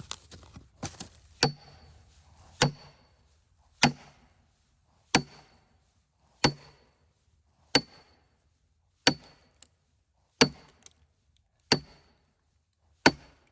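A hammer striking a steel splitting wedge driven sideways into a cedar log. About ten evenly paced blows come roughly once every second and a bit, each a sharp metallic clang with a brief ring.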